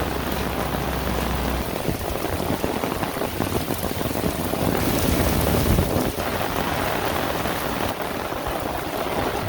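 Heavy rain pouring down steadily as a dense, even hiss that swells a little louder around the middle, with a faint low hum underneath at times.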